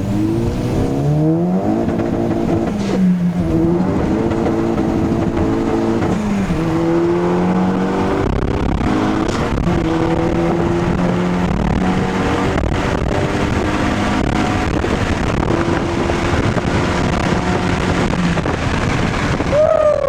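A car engine accelerating through the gears. Its pitch climbs and then drops sharply at each upshift, twice in the first several seconds, before it settles into a steady cruise.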